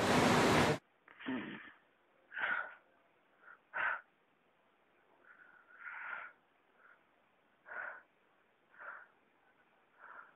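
A loud burst of noise that cuts off within the first second, then a young man's heavy, gasping breaths, about seven of them spaced a second or two apart, as he wakes with a start from a bad dream.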